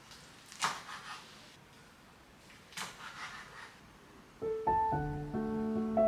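Soft piano music begins about two-thirds of the way in, after a few faint brief knocks or rustles.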